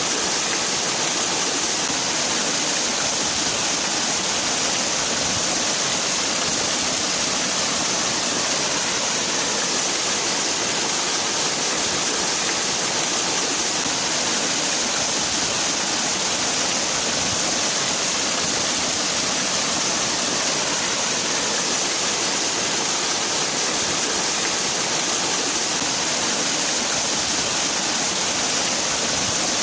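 Waterfall: water falling and splashing in a steady, unbroken hiss, strongest in the high range, with no change in level.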